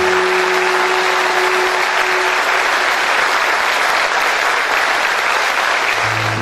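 Audience applauding steadily at the end of a song, with the last held note of the music fading out under it in the first two seconds. The applause cuts off suddenly at the end.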